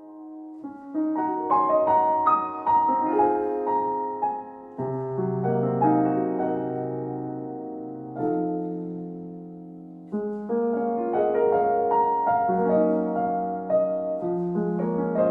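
Solo piano music: a calm, slow piece of single notes and chords struck in phrases and left to ring, with new low chords about five, eight and ten seconds in.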